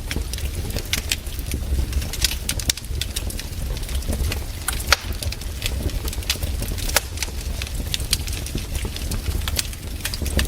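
Wood campfire crackling, with sharp irregular pops and snaps several times a second over a steady low rumble.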